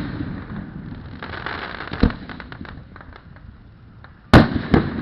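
Aerial fireworks shells bursting: a sharp boom about two seconds in and two more near the end, a fraction of a second apart. A crackle of small pops comes in between.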